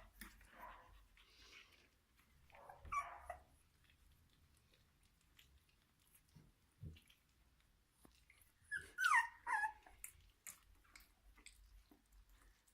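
Three-week-old kelpie puppies whimpering and squeaking softly. There is a short cry about three seconds in and a few high squeals that fall in pitch about nine seconds in, with faint rustling and clicks between.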